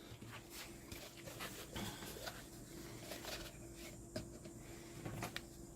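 Faint scattered clicks and light knocks of shock-absorber parts and an oil container being handled at a workbench, over a faint steady hum.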